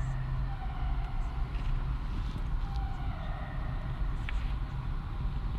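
Steady low rumble of road traffic in a road tunnel, with faint tones that fall slightly in pitch every couple of seconds.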